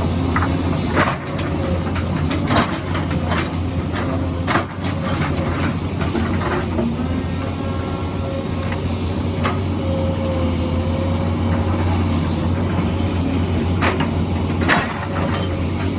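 Heavy excavator's diesel engine running steadily under load, with repeated sharp knocks and clanks of rock and metal as it digs.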